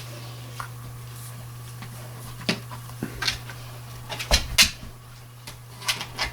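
A dog handling a large rawhide bone, the bone knocking and clattering against a hard floor several times, loudest a little past halfway. A steady low hum runs underneath.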